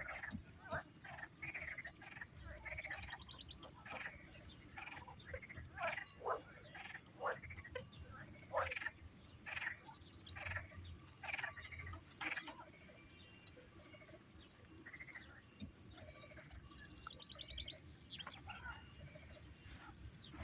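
Frogs croaking: many short calls one after another, thickest in the first two-thirds and thinning out later.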